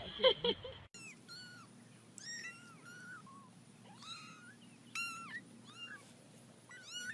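Kittens mewing: many short, high calls that rise and fall, sometimes overlapping. Before them, in the first second, there is a brief louder sound.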